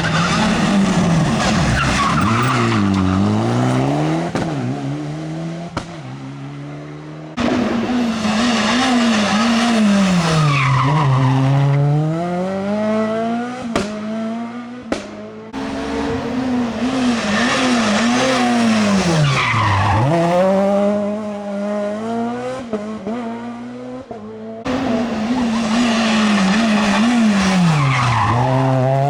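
Rally cars' engines in four passes, cut sharply one after another. In each, the engine pitch sweeps down as the car brakes and downshifts into a corner, then climbs again as it accelerates away through the gears.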